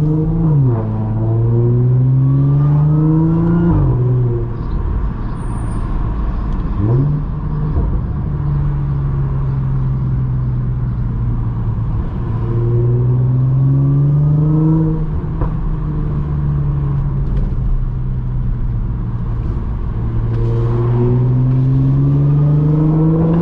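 Audi S4 B8.5's supercharged 3.0-litre V6 running through catless test pipes, AWE resonated downpipes and an AWE touring cat-back exhaust while driving. The engine note climbs under acceleration and falls back sharply at each gear change, several times, with steadier cruising stretches between.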